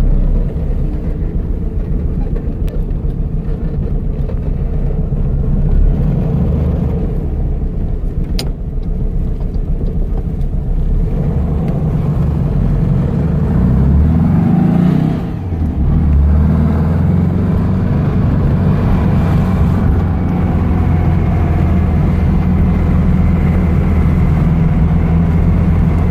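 1970 VW Baja Beetle's 2276cc air-cooled flat-four engine running under way, heard from inside the cabin. About fifteen seconds in, the revs climb, then drop sharply for a moment before the steady note resumes.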